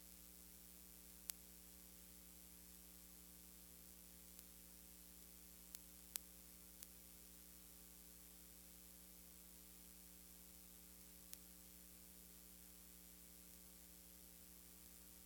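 Near silence: a steady electrical hum and hiss, broken by a few sharp clicks.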